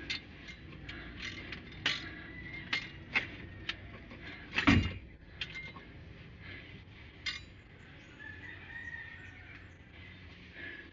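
Scattered sharp metallic clinks and knocks of tools and parts being handled during engine work, the loudest a heavier clank near the middle.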